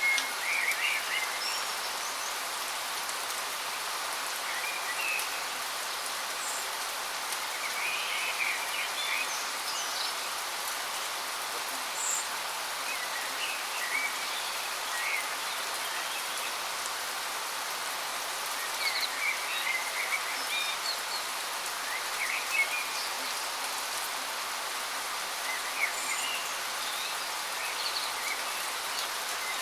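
Steady rushing hiss of a waterfall, with small birds chirping in short, scattered calls over it.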